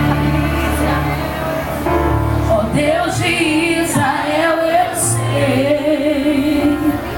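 Gospel worship music with sustained instrumental chords and bass; a woman's singing voice comes in about three seconds in and carries the melody.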